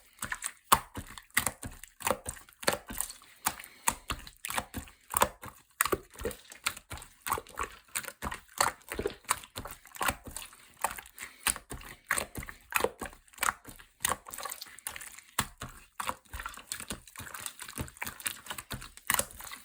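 Orange clear slime being squeezed and pressed by hand, giving a quick run of sticky clicks and small pops, several a second.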